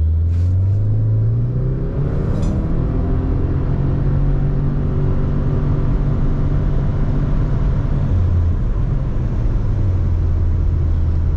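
Subaru Forester tS STI's turbocharged flat-four at full throttle through its CVT, heard inside the cabin during a 0-100 km/h acceleration run. The engine note climbs over the first two seconds, then holds an almost steady pitch while the car gathers speed.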